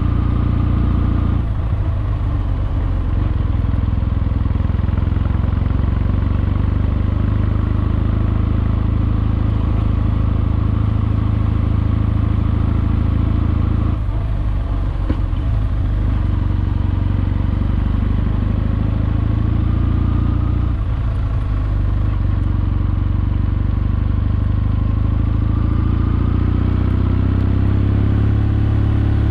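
Kawasaki W650's air-cooled parallel-twin engine, fitted with aftermarket Wyvern Classic mufflers, running steadily under the rider. The throttle is eased off briefly three times: about a second in, around the middle, and about two-thirds through.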